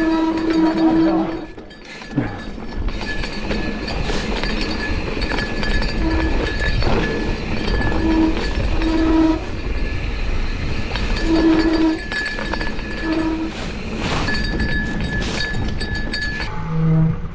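A downhill mountain bike being ridden fast down a dirt trail: a steady rush of wind and tyres on dirt, with the chain and frame rattling and clicking over the bumps. Several short pitched squeals come from the bike along the way.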